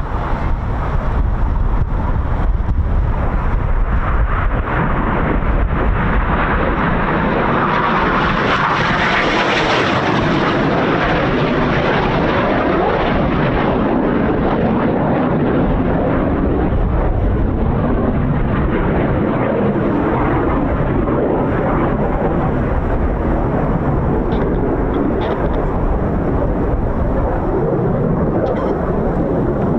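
Jet noise from Red Arrows BAE Hawk T1 aircraft flying past, a continuous roar. It swells to its loudest and brightest about nine seconds in, then slowly dulls as the jets move away.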